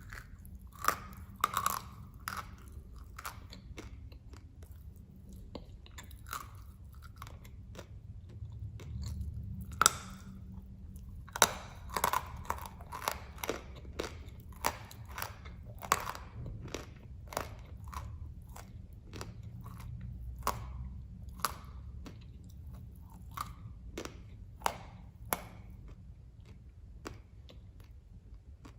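Dry, hard blocks of edible clay (khawa) being bitten and chewed: a long run of sharp, brittle crunches. The crunches come thickest about halfway through and thin out near the end.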